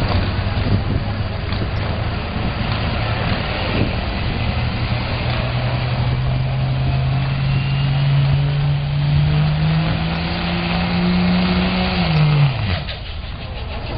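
A 4x4 pulling truck's engine running hard under load, its pitch climbing steadily for several seconds, then dropping away abruptly near the end.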